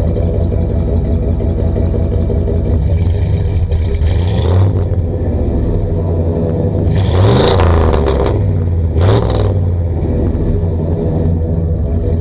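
1992 Chevy 3500's 5.7-litre (350) V8 running at a steady idle through a new cat-delete, high-flow exhaust, revved briefly three times: a short blip about four seconds in, a bigger rev around seven seconds, and a quick one near nine seconds.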